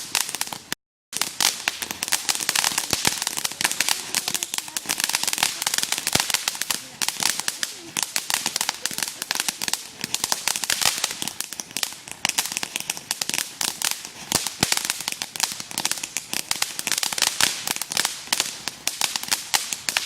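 Ground firework crackling: a rapid, unbroken stream of small pops lasting many seconds, with a brief cut-out about a second in.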